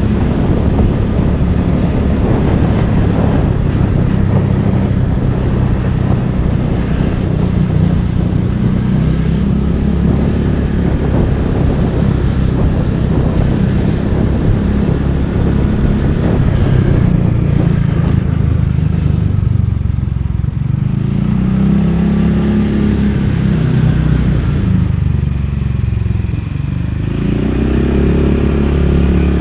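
Motorcycle engine running under way over a steady rush of wind and road noise. Past the middle the engine note drops and then climbs again.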